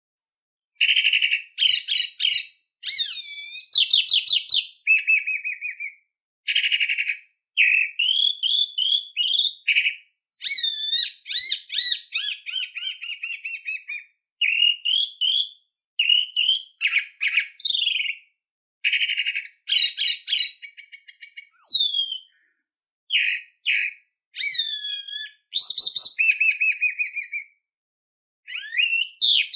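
A songbird singing a long, varied song in phrases of one to three seconds: fast trills, buzzy rattles and sliding whistled notes, with brief silent pauses between phrases.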